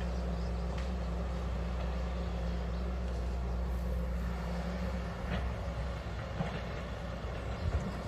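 Hydraulic excavator's diesel engine running steadily, with a few knocks and clanks of the machine in the second half.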